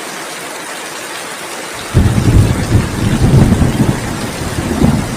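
Steady rainfall hissing, joined about two seconds in by a sudden loud low rumble that keeps going and wavers in strength.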